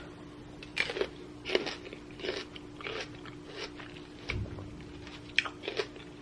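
A person chewing crisp, freshly washed grapes in the mouth, with repeated crunches roughly every half second to second. A steady low hum runs underneath.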